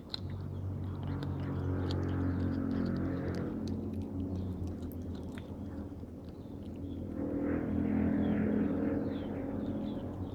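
A cat chewing and crunching a gecko, with small sharp clicks and crunches scattered throughout. A low droning sound swells up and fades away twice and is louder than the chewing.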